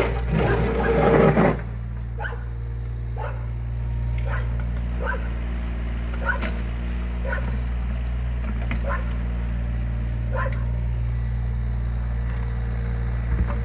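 Yanmar ViO17 mini excavator's diesel engine running steadily, with a dog barking and yipping in short calls about once a second over it. A louder burst of sound fills the first second and a half.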